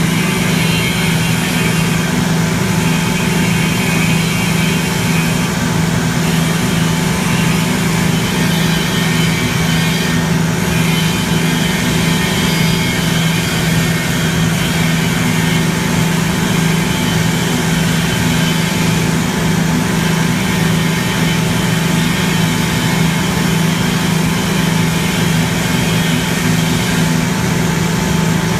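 Paint line conveyor drive machinery running with a steady, loud mechanical drone and several constant tones over it, unchanging throughout.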